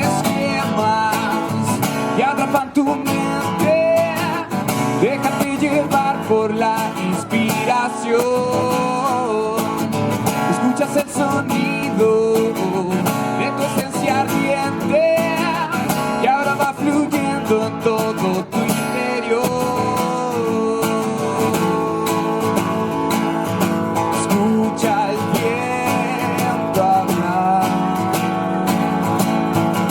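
Live acoustic music: an acoustic guitar strummed steadily with a sliding melody line above it, no words.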